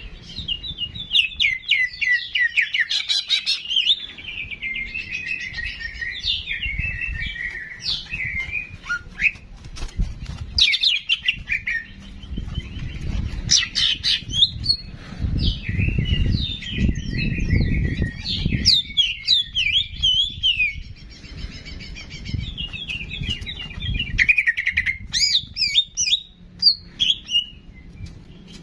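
A small songbird sings a continuous, rapid twittering song of quick trills and sharp chirps, with brief pauses. It is the bird Indonesian keepers call cicak jenggot ('ki jenggot'), recorded as tutor song for training other cage birds. A low rumbling noise sits under it, strongest in the middle.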